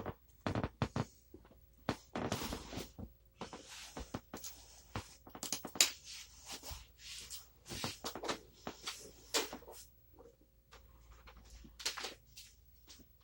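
Irregular rustling, clicks and knocks of things being handled and moved, in quick uneven bursts.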